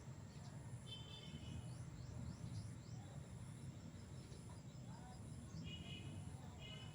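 A small bird chirping faintly: a run of quick, high, short downward chirps, with brief buzzy trills about a second in and twice near the end, over a steady low rumble.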